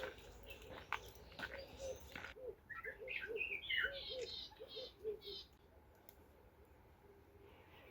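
Wild birds calling: a run of short, low arched notes together with higher chirping notes, dying away about five and a half seconds in. A few faint clicks sound in the first two seconds.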